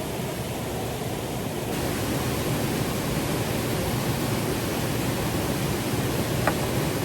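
Steady rushing water of a mountain stream, turning brighter and a little louder about two seconds in, with a single short click near the end.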